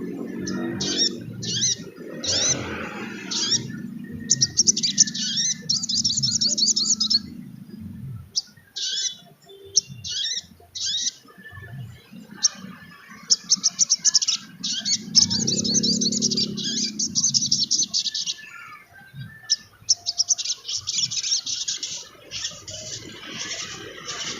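Sogon trotol (a spiderhunter) singing: rapid high chattering trills in bursts of a few seconds, broken by short sharp chirps.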